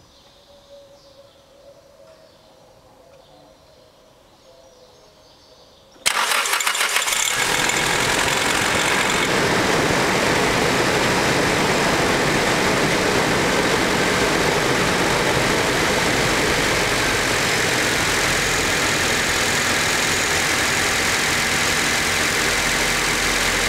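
Nissan S14A's SR20DET turbocharged four-cylinder cold-starting: it catches suddenly about six seconds in, then runs at a steady idle. The owner attributes a noise in it to the timing chain tensioner.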